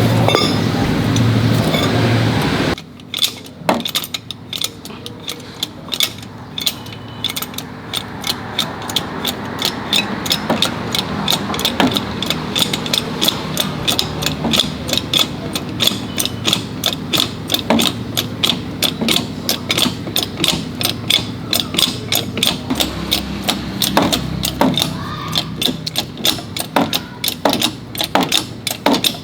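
A loud steady mechanical hum that cuts off suddenly about three seconds in, followed by the rapid, repeated clicking of a ratchet wrench being worked back and forth, several clicks a second.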